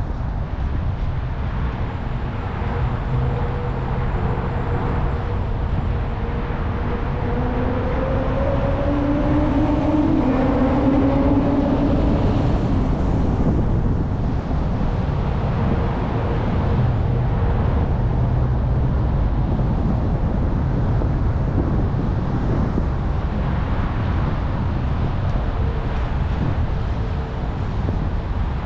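Steady rumble of wind on the microphone and road noise while cycling in city traffic. About ten seconds in, a motor vehicle passes close by, its engine note rising and then fading.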